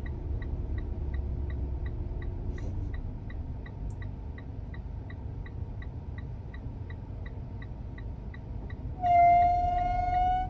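Car's air-conditioning system running: a low drone with a faint hum that drops away about three seconds in, and a light regular ticking about three times a second. The uploader takes this noise for the sign of a failing AC expansion valve. A steady horn-like tone sounds for about a second and a half near the end.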